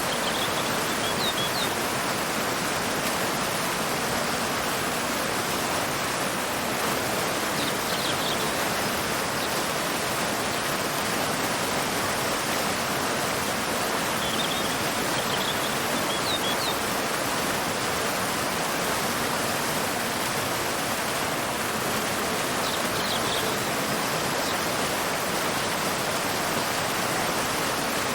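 Waterfall and river water rushing steadily, with short high bird chirps coming in small groups every few seconds.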